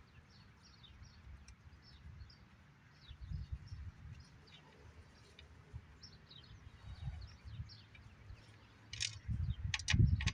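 Birds chirping faintly in the background over low rumbling handling noise, with a few sharp clicks near the end.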